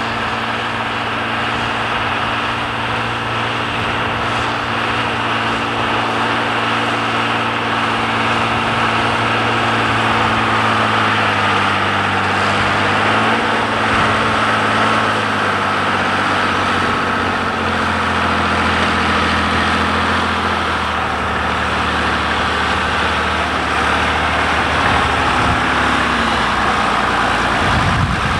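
John Deere 3350 tractor's diesel engine running steadily under load while ploughing, its note shifting slightly in pitch a few times.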